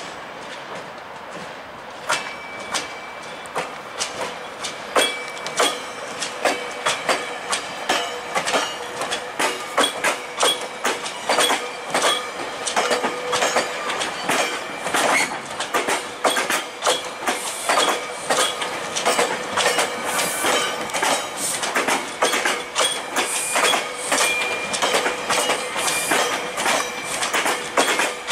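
GO Transit bilevel commuter train passing close by, its wheels clacking over rail joints in a rapid, uneven rhythm that begins about two seconds in as the cab car arrives. A thin squeal from the wheels comes and goes.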